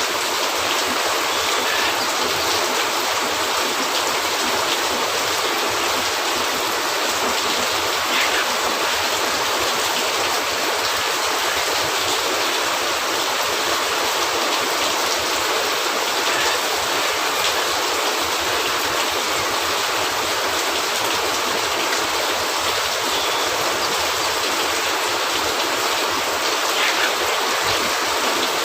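Steady rain falling on a cabin roof: an even, dense hiss that does not let up, with an occasional faint click or pop.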